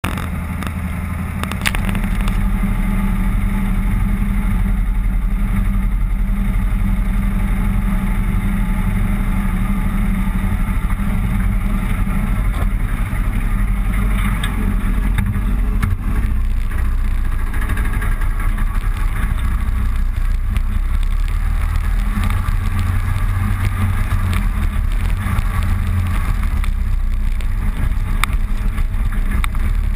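Motorcycle engine running steadily while riding along a road, stepping up in loudness about two seconds in.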